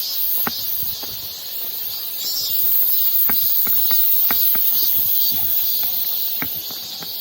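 Strong wind blowing: a loud, steady high hiss, with scattered sharp clicks and taps through it.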